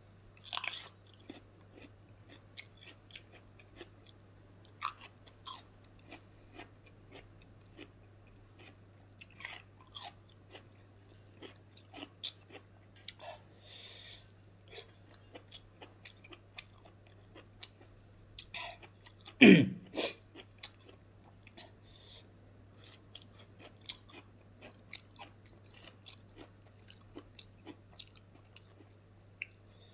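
Close-miked chewing of smoked pork and rice eaten by hand, with many small wet mouth clicks and smacks. One much louder thump comes about two-thirds of the way through, over a steady low hum.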